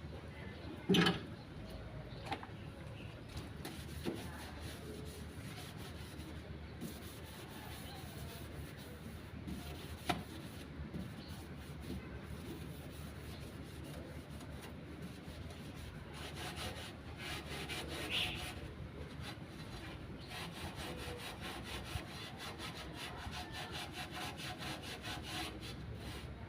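Rapid, rhythmic hand scraping or scrubbing strokes, with a sharp knock about a second in and a few lighter clicks.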